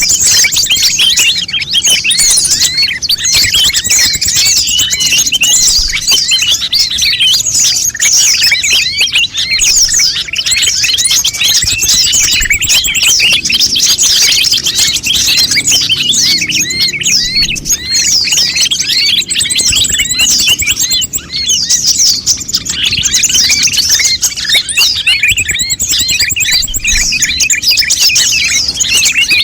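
Konin songbirds calling, a dense and unbroken stream of rapid, high, overlapping chirps and quick pitch sweeps.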